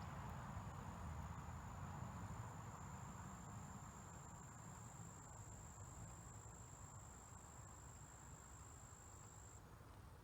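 Insect trilling: one steady, unbroken high-pitched note that stops near the end, over faint low background noise.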